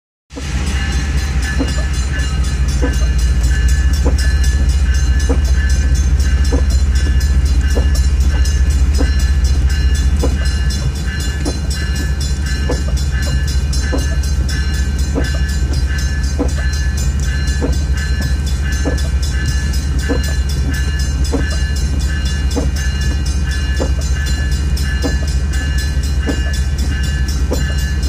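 Train rolling past a grade crossing, heard from inside a car: a loud steady low rumble with evenly spaced clicks about one and a half a second.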